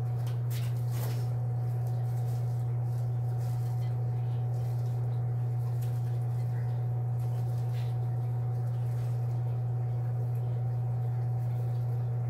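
Steady low hum with a fainter thin tone above it, and faint light ticks and rustles as flowers and materials are handled.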